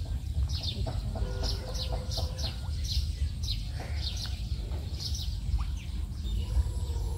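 Birds chirping: a steady run of short, high chirps that fall in pitch, two or three a second, over a constant low rumble.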